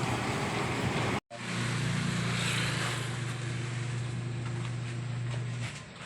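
A steady low motor hum that starts just after a brief break in the sound about a second in and drops away near the end. Before the break there is a steady hiss.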